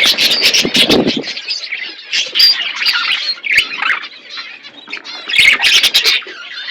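Parrot squawking in harsh, loud bursts, strongest near the start, just after two seconds and again around five and a half seconds, with sharp clicks among the calls.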